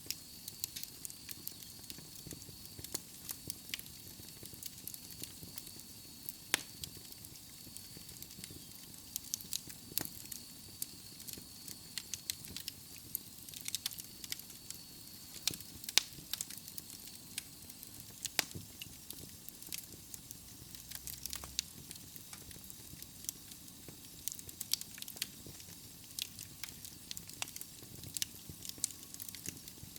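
Wood logs burning in a fireplace, crackling with frequent irregular pops and snaps over a soft steady hiss; one sharper pop stands out about halfway through.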